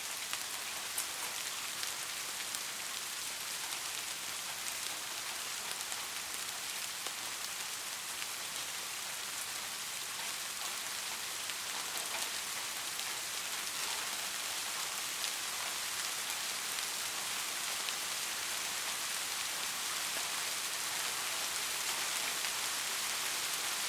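Steady, gentle rain falling on a surface, a continuous hiss with many small drop ticks and no thunder.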